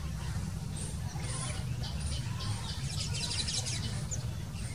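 Baya weaver chirping: scattered short, high chirps, with a quick run of them about three seconds in, over a steady low rumble.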